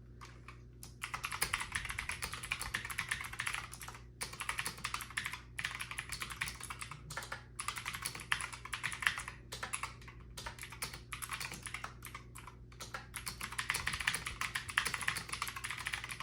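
Hawksbill Scorpion V1 mechanical keyboard with tactile, clicky switches being typed on fast, a dense run of key clicks with brief pauses between bursts, starting about a second in.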